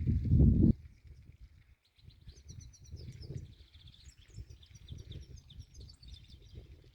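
A small songbird singing rapid high chirps and trills from about two seconds in. Under it runs a low, irregular rumbling noise, loudest in the first second.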